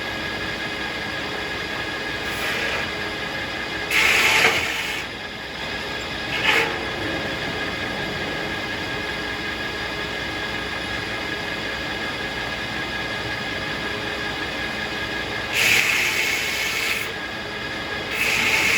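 Circular sawmill running steadily with a pitched machine hum, broken by four short, loud hissing bursts, two of them lasting about a second.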